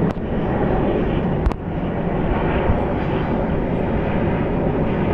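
Embraer E195-E2 jet airliner's engines running, a loud, steady noise that dips briefly about one and a half seconds in.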